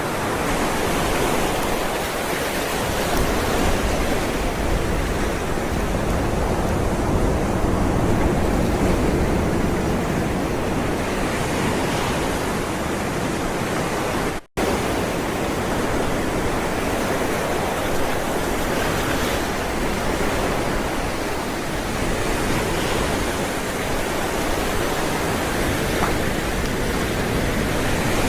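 Ocean waves rolling and breaking in a continuous wash of surf that swells and eases gently. The sound cuts out for a split second about halfway through.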